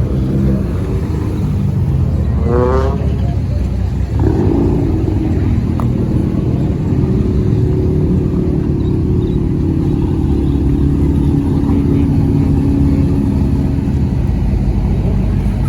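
Car engines running, with a low rumble throughout and a steady engine drone holding through the middle.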